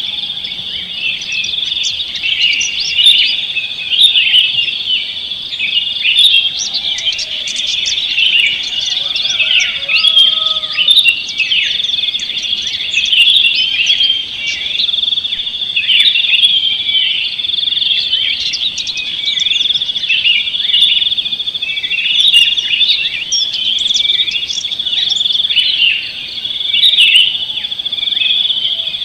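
A dense chorus of many small birds chirping and twittering without pause, over a steady high-pitched buzz.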